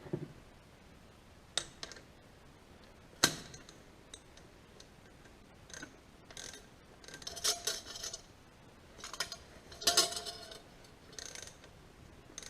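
Metal hand tools clicking and clinking on the injection pump's mounting fasteners of a Kubota D722 diesel. One sharp knock about three seconds in is the loudest. Short runs of metallic clicking come near the middle and again about ten seconds in.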